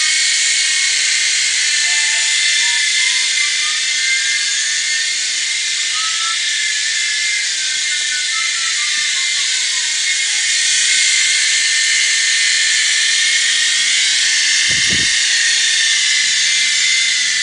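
Mini Airwolf remote-control helicopter's small electric motor and rotors running with a steady high-pitched whine. A short low thump comes about 15 seconds in.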